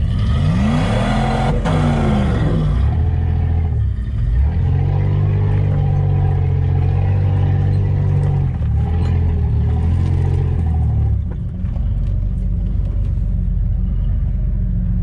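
Off-road 4x4 engine revving, heard from inside the cab: the revs rise and fall twice, then hold steady for several seconds and drop back about eleven seconds in.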